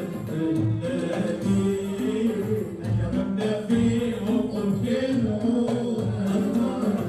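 Group of voices singing a devotional chant (sholawat) together, with hand drums keeping a steady beat.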